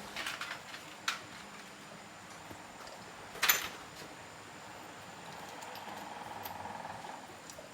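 Workshop handling noises of metal tools and motorbike parts: a few light clicks and knocks, one louder clatter about three and a half seconds in, and a quiet fast rattle near the end.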